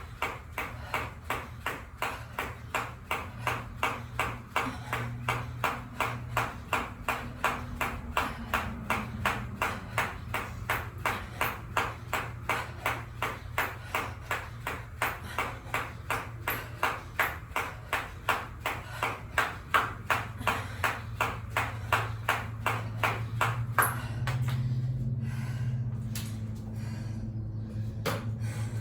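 Jump rope skipping: the rope slaps the floor and the feet land in a steady rhythm of about two and a half strikes a second. It stops about four seconds before the end, as the set of 100 revolutions finishes.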